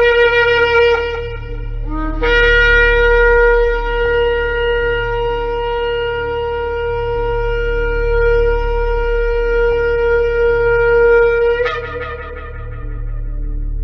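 Shofar (ram's horn) blowing: a short blast, then one long sustained note held for about nine seconds, ending about 12 seconds in. A low steady hum runs underneath.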